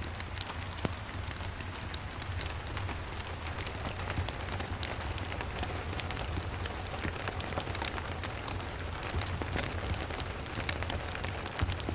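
Steady rain falling, with frequent sharp crackles and pops from a wood fire scattered through it, over a low steady rumble.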